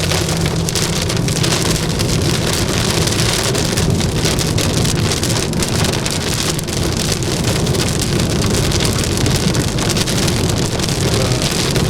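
Heavy cloudburst rain pelting a moving car, a loud steady hiss over the low hum of the car driving on the wet road, heard from inside the car.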